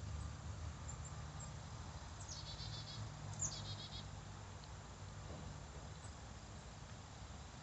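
A bird calls twice, about two seconds in and again a second later, each call a short rapid trill of high notes, over a faint steady low hum.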